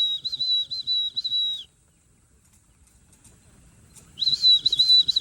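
A person whistling a high, warbling call in two stretches, one at the start lasting about a second and a half and another from about four seconds in. It is a pigeon fancier's whistle calling returning homing pigeons down into the loft.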